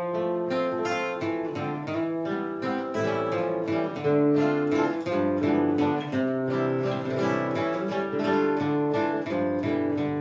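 Acoustic guitar strumming chords in a steady, even rhythm of about three strokes a second, accompanying a hymn.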